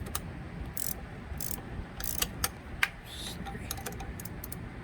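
Ratchet wrench clicking in short bursts, with scattered sharp metal clicks, as a bolt on the motorcycle's shift linkage is tightened.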